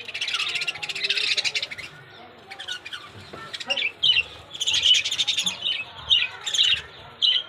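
Budgerigars chirping and chattering in quick, high bursts, with a dense spell of chatter in the first two seconds and sharp repeated chirps from about four seconds in.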